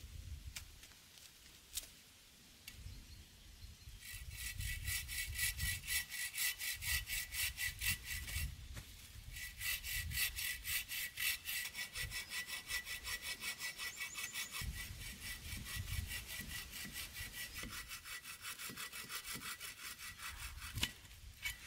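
Hand saw cutting wood with quick, even strokes. It starts about four seconds in, pauses briefly near the middle, then carries on to near the end.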